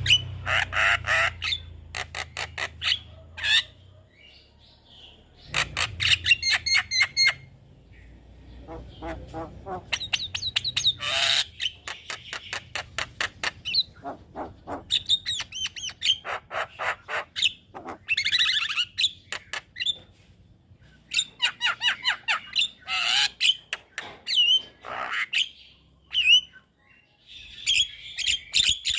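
Javan myna singing: bursts of rapid, harsh chattering notes mixed with squawks and short whistled calls, separated by brief pauses.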